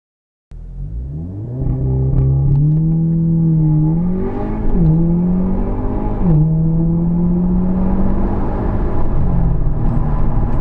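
Audi S3 8V's tuned 2.0-litre turbocharged four-cylinder accelerating hard from a launch, its pitch climbing with revs and dropping sharply at quick upshifts about five, six and nine seconds in. The sound cuts in suddenly about half a second in, and the engine settles to a lower, steady note near the end.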